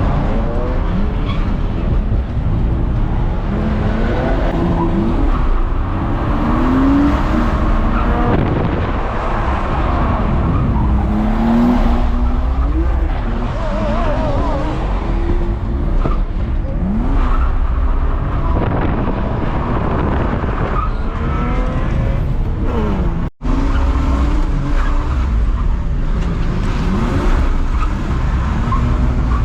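BMW E46 325Ci's straight-six engine revving up and down with tyre squeal as the car drifts round the track. There is a momentary dropout about two-thirds of the way in.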